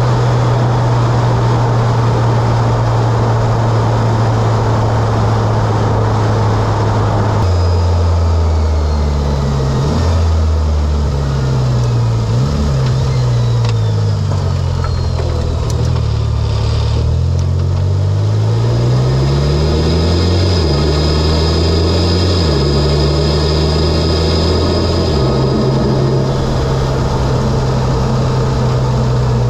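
Mitsubishi Lancer Evolution X's turbocharged 2.0-litre four-cylinder, with an aftermarket intake and exhaust, running steadily while driving. After about seven seconds the engine pitch rises and drops several times through a stretch of acceleration and gear changes, then settles steady again near the end.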